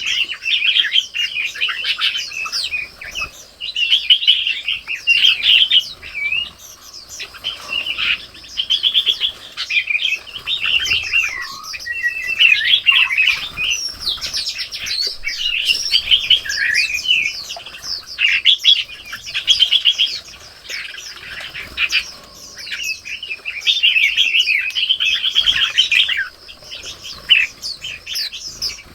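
Several songbirds chirping and calling without a break. Their quick trills and chirps overlap, with a few short lulls.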